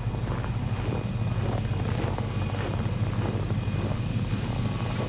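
Plow truck under way, its engine and road noise making a steady low drone.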